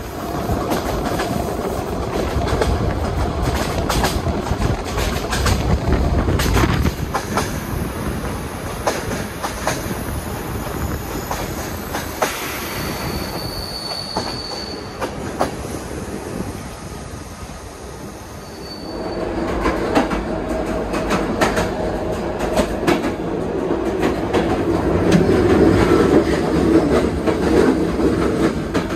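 Train running on the rails, wheels clicking over rail joints, with a brief high wheel squeal about halfway through. The running noise grows louder, with a steady hum, for the last third.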